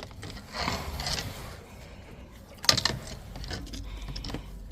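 Drain rods scraping and clattering in an outside drain as they are worked to clear a blockage, with one sharp knock a little over halfway through, then a run of small clicks.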